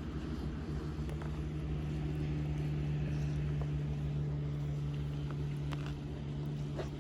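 A steady low engine drone holding one pitch, with a few faint ticks over it.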